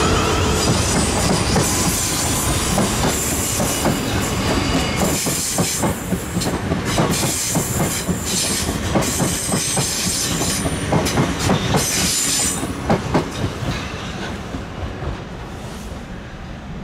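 Electric multiple-unit trains running over pointwork, with a steady rumble and a quick run of wheel clicks over the rail joints and points. The clicking is thickest in the middle, then the sound dies away near the end as the trains draw off.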